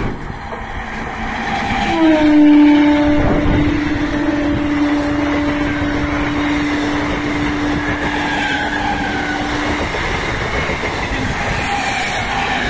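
Indian Railways MEMU electric local train passing close at speed, with steady wheel and running noise. Its horn sounds one long blast of about eight seconds, starting about two seconds in and dipping slightly in pitch as it begins.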